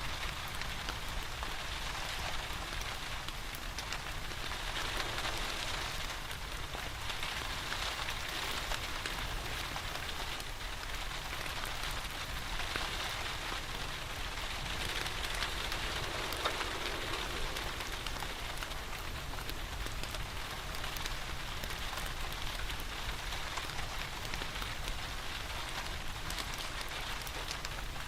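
Steady rain falling, with a dense patter of drops over a low, even rumble, and a fireplace crackling faintly underneath.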